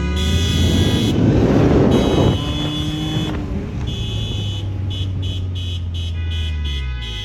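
Car engines running at a street car meet, with one car accelerating hard for a loud surge of exhaust noise in the first two seconds, over a steady low engine drone that fades out near the end.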